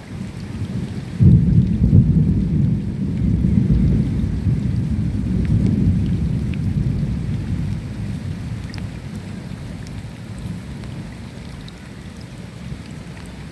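Thunder rumbling over steady rain: a deep roll breaks in suddenly about a second in and fades slowly over the next several seconds, with scattered raindrops ticking throughout.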